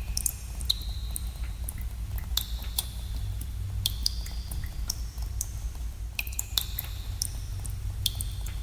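Water drops falling in a cave, irregular plinks, about two or three a second, some ringing briefly at a high pitch, over a steady low rumble.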